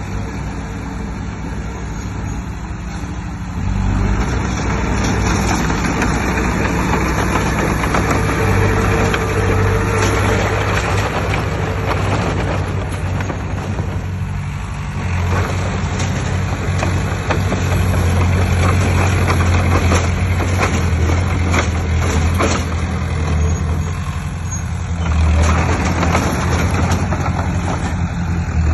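Heavy diesel engine of earthmoving machinery running under load. It grows louder about four seconds in, then eases and picks up again a couple of times, with occasional short clanks.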